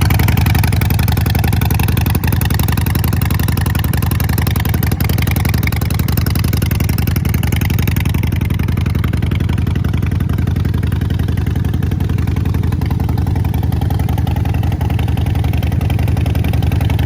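2014 Harley-Davidson Sportster 48's air-cooled 1200 cc V-twin idling steadily through Vance & Hines Short Shots exhaust pipes, warming up after a cold start following winter storage.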